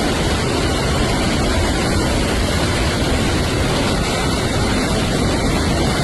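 Hurricane-force wind and heavy rain, a steady loud rush of noise, with wind buffeting the microphone.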